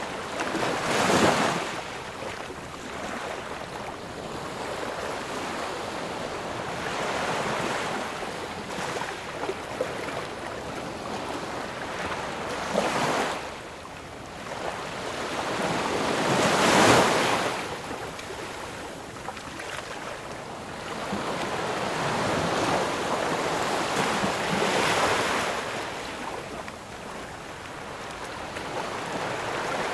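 Ocean surf: waves break and wash up the shore as a rushing hiss that swells and fades. The rush crests four times, loudest about a second in and again past the middle.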